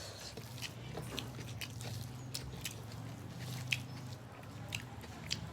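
A person chewing a mouthful of rice and mashed aubergine close to the microphone, with many short wet mouth clicks scattered throughout, over a steady low hum.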